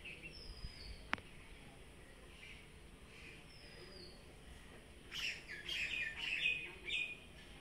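Small birds chirping. A few faint short whistles fall in pitch, then a burst of quick, louder chirps starts about five seconds in and lasts about two seconds. There is one sharp click about a second in.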